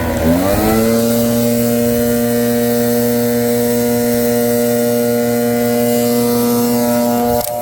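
Leaf blower running hard: its pitch dips briefly, then climbs and holds steady. Near the end the sound drops suddenly to a lower, quieter note.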